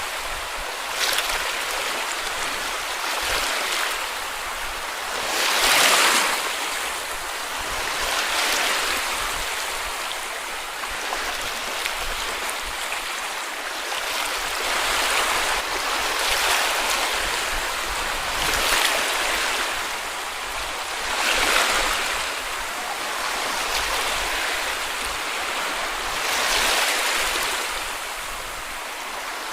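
Sea waves breaking and washing up a beach, swelling and falling back every few seconds over a steady hiss of surf.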